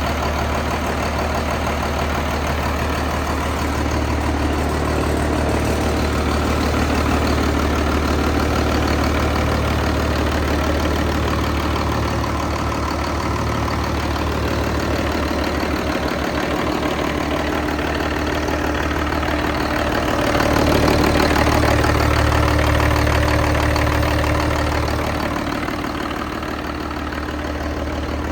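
Cummins QSB diesel engine idling steadily, swelling a little louder for a few seconds past the middle before settling back.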